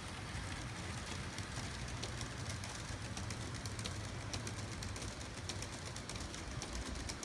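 Garden-railway model train running along outdoor track: a steady low electric-motor hum with a run of light, quick clicks from the wheels on the rails. The locomotive has no sound card, so only its motor and wheels are heard.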